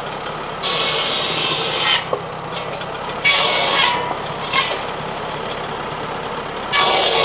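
Tractor-driven circular buzzsaw cutting firewood logs: three cuts, each a loud rasping burst of about a second or less, over the steady drone of the tractor running the saw.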